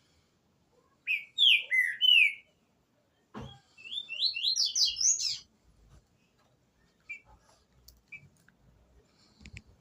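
Green-winged saltator (trinca-ferro) singing two short phrases of slurred notes, one about a second in and the next from about three and a half seconds, then a few faint single notes. A sharp knock comes just before the second phrase.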